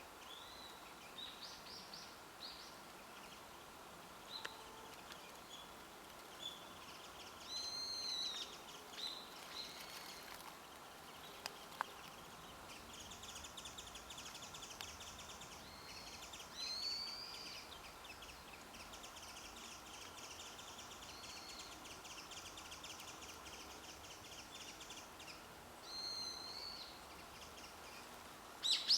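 Wild birds calling over a faint steady hiss: short, arched whistled calls come every few seconds, and a long, rapid trill runs through the middle. There is one sharp tick about halfway through.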